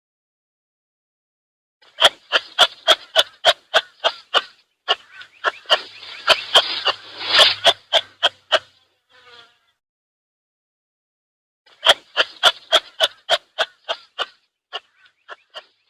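An animal call made of rapid, evenly spaced short pulses, about four a second, in two bouts: a long one of about seven seconds and a shorter one of about three and a half seconds, with a pause between.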